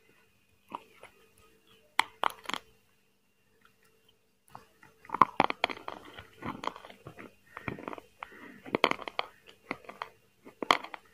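Close-miked chewing and crunching of a mouthful of chicken biryani: a few crisp bites about two seconds in, a short pause, then steady crunchy chewing from about five seconds in.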